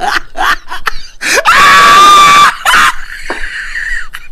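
A person laughing in quick rhythmic bursts, then a loud, high-pitched scream held steady for about a second and a half.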